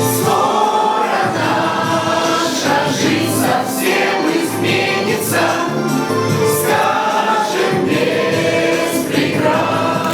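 Group of voices singing a song in chorus over musical accompaniment.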